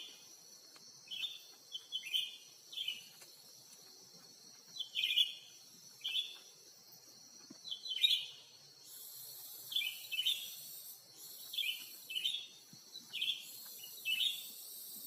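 A cucak ranting calling in short, downward chirps, repeated irregularly about once a second. Behind it is a steady high insect hiss that swells about two-thirds of the way in.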